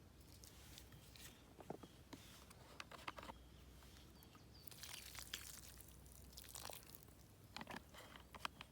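Faint crunching and crackling handling noise with scattered sharp clicks, and a louder rustle about five seconds in.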